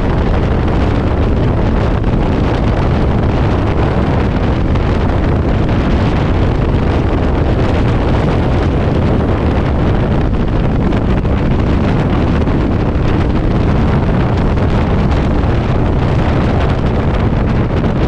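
Strong gusting wind buffeting the microphone of a moving motorcycle. It makes a loud, steady rushing noise, heaviest in the low end, with no distinct engine note standing out.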